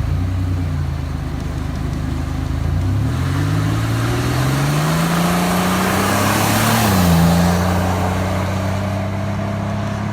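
A car engine running steadily, then revving up in one long rising pull. The revs drop sharply about two-thirds of the way through and the engine holds steady again. A rushing noise swells as the engine climbs.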